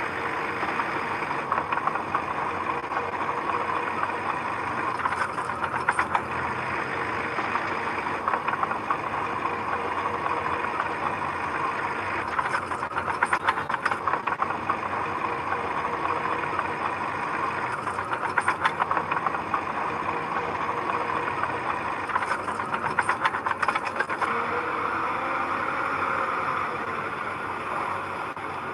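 Heavy construction machinery engine running steadily, with bursts of clatter four times, each lasting a second or two.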